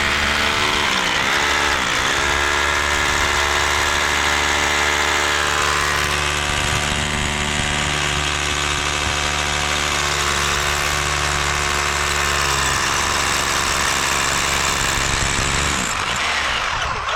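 A small engine running steadily at constant speed. Its pitch sags briefly twice about a second and two seconds in, then it shuts off near the end.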